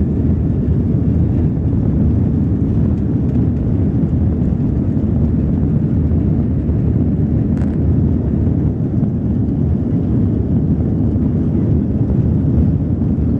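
Airbus A330 airliner cabin during the takeoff roll: the engines are at takeoff thrust, heard as a loud, steady low rumble with rushing noise. There is a faint click about halfway through.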